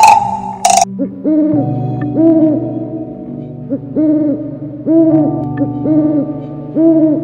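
Eurasian eagle-owl hooting: short arched hoots, often in twos and threes, repeated over several seconds. In the first second, two sharp taps of a yellow-bellied sapsucker's bill on bark.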